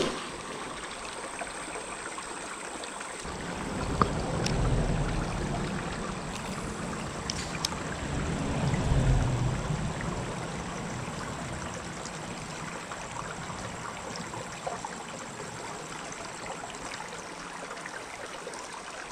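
Shallow creek water running and trickling in a steady rush, with two low rumbles swelling about four and nine seconds in.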